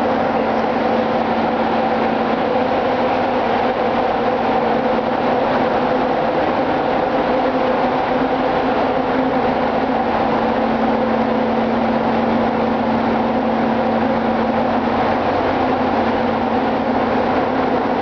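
Ship's engine room machinery running steadily: a loud, unbroken din with a few steady humming tones over dense mechanical noise.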